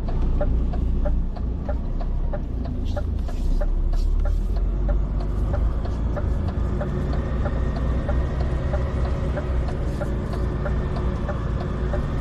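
DAF XF 460 truck's diesel engine running with a steady low rumble, with a regular light ticking about three times a second over it and a low hum joining about halfway through.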